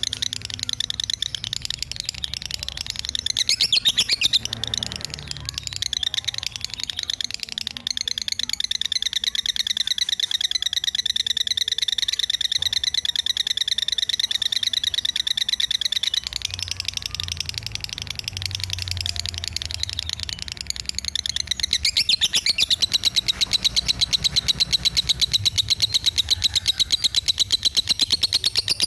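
Lovebird singing in the 'fighter semi minor' style: long runs of rapid, high chattering chirps, with brief changes in the run about four, sixteen and twenty-two seconds in.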